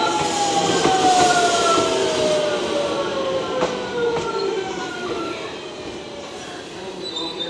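JR West 281 series limited express train rolling through a station as it slows, its electric traction motors whining in several tones that fall steadily in pitch, over wheel and rail noise. A few sharp wheel clicks over rail joints come a little past halfway.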